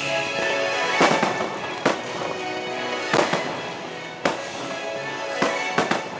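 Fireworks bursting with about half a dozen sharp bangs, irregularly spaced and echoing, over a steady music soundtrack, during a fireworks display finale.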